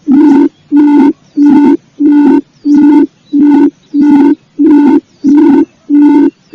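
Paddy-field quail (puyuh sawah) lure call: one deep hooting note at an unchanging pitch, repeated about twice a second in an even series. Faint high chirps from another bird come through now and then.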